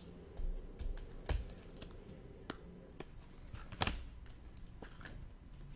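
Trading cards being handled on a table: light, irregular clicks and taps, the sharpest about a second and a half in and just before four seconds in.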